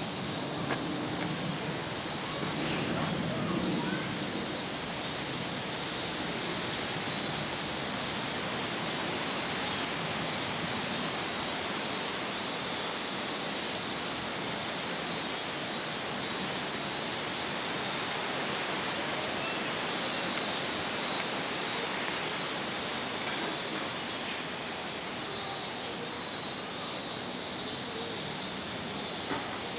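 Steady outdoor hiss with no distinct events, strongest in a high band.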